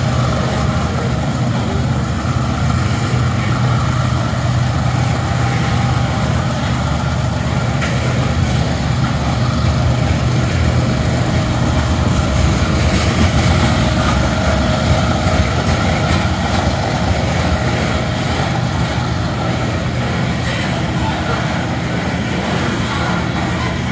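Loaded coal train rolling past with its diesel-electric locomotives working: a steady, heavy rumble with a low engine drone.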